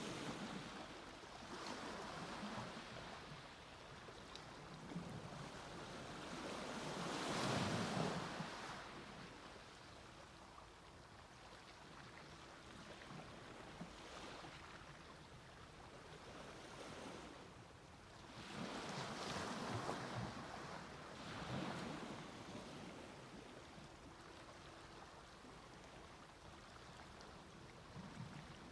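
Sea waves breaking and washing up a beach, swelling and fading every few seconds, with the biggest wave about a quarter of the way in. A faint steady hum sits under the quieter stretches.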